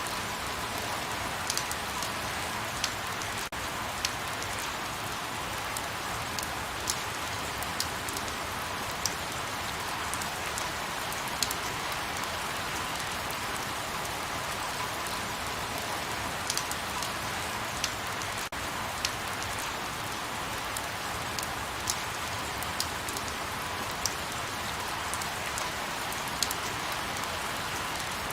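Light rain falling steadily, a soft even hiss with scattered sharper drop ticks landing every second or so.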